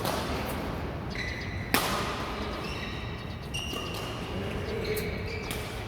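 Badminton play in an echoing indoor hall: a sharp racket strike on the shuttlecock about two seconds in, with fainter hits and short high squeaks of shoes on the court.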